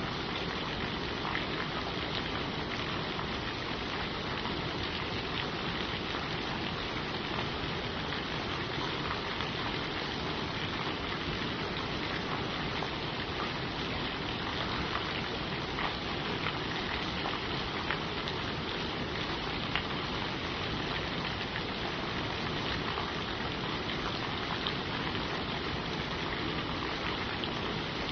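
Steady rain falling on leaves, an even hiss with scattered drops ticking here and there.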